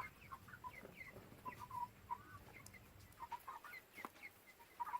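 Chickens clucking faintly in many short, scattered calls.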